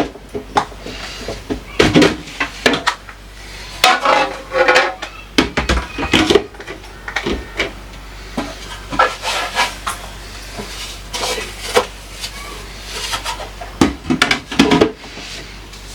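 Dishes and food containers clattering and knocking as they are handled and set down, a string of separate clinks and knocks, with a voice heard briefly a few times in between.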